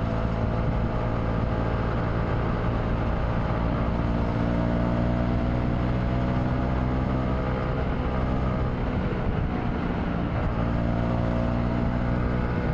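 Engine of a Honda 150 cc motorcycle running steadily while riding along, recorded through the camera's wind-cut filter. The engine note dips slightly and rises again about three-quarters of the way through.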